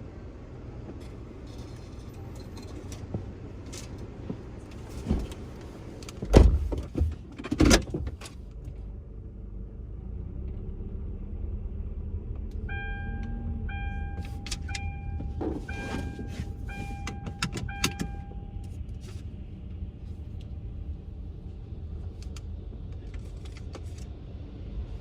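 Car idling with a steady low rumble. Several loud knocks come about six to eight seconds in, then a string of about eight short, evenly spaced electronic beeps.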